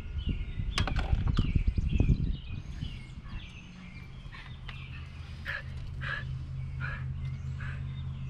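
Birds chirping outdoors, short calls repeating throughout. For the first two seconds a loud low rumble with a few sharp clicks about a second in, then a steady low hum underneath.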